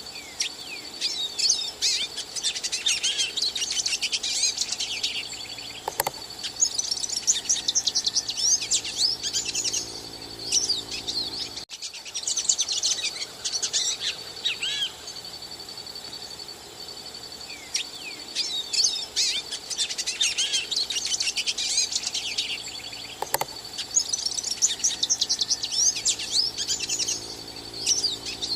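Hooded siskin (pintassilgo) singing: long phrases of rapid, varied twittering, about five of them separated by short pauses. A faint steady high tone runs underneath.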